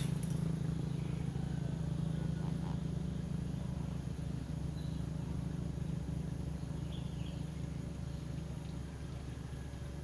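Persian mother cat purring steadily, a low continuous rumble with a fast flutter, with faint high squeaks from the newborn kittens twice around the middle.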